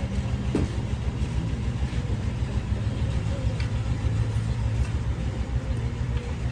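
Steady, low, pulsing rumble of an engine running, with a few faint clicks.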